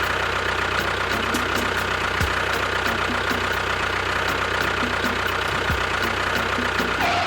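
Diesel tractor engine idling steadily with a regular knocking beat, then cutting off abruptly near the end.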